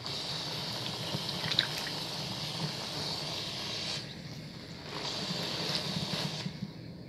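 Wet bar soap being lathered, a wet rubbing and squishing sound, in two spells with a short break about four seconds in.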